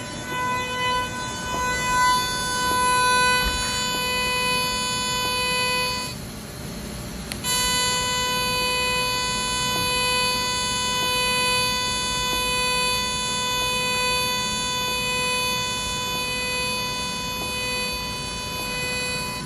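Electric welding arc giving a steady, high-pitched buzz. It cuts out about six seconds in and strikes again with a click about a second and a half later.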